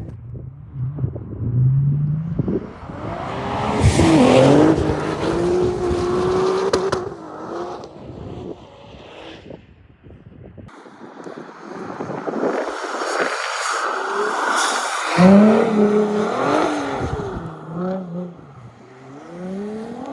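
A car engine revving hard, its pitch rising and falling, as the car is driven at speed. It gets loudest twice, about four seconds in and again near fifteen seconds, with a quieter lull between.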